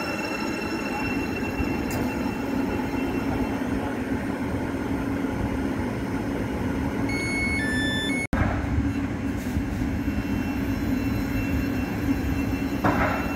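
Passing train: a steady rumble of wheels on rail with a low hum. The sound drops out for an instant about eight seconds in, then the rumble comes back heavier in the bass.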